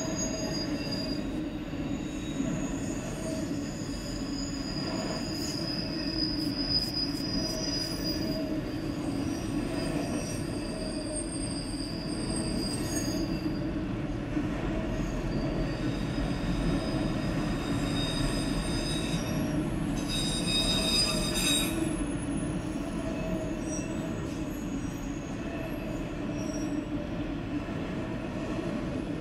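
Autorack cars of a long freight train rolling past with a steady rumble, overlaid with high-pitched wheel squeal that comes and goes.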